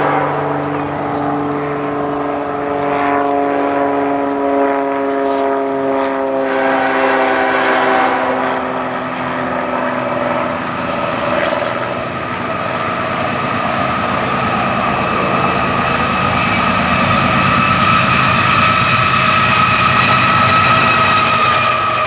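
Diesel freight train locomotives passing, with a chord of tones slowly falling in pitch over the first ten seconds, then a higher steady whine growing louder toward the end.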